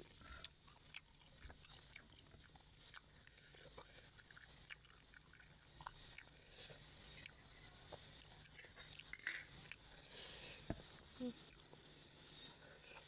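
Quiet close-miked chewing and mouth sounds of a person eating, with scattered small clicks and one sharper, louder click about nine seconds in.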